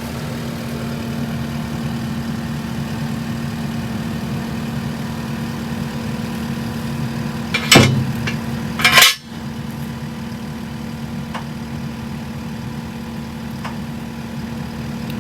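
An engine idling steadily, with two loud metallic clanks a little under eight and about nine seconds in.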